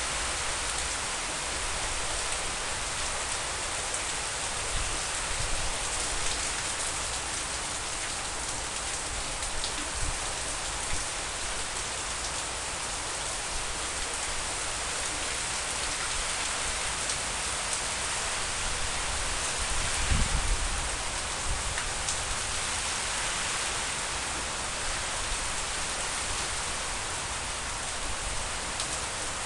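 Heavy rain pouring down steadily, splashing on pavement, standing floodwater and garden leaves, with a brief low rumble about two-thirds of the way through.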